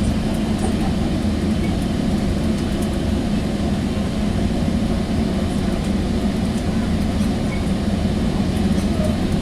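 Steady rumble of a Sound Transit Sounder commuter train running along the line, heard from inside a passenger coach.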